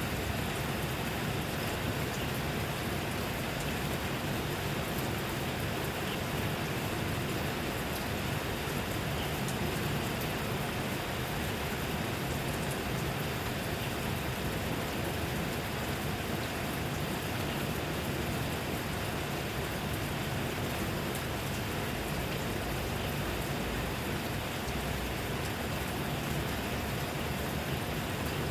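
Steady rain falling, an even hiss with many small drop ticks and no change in strength.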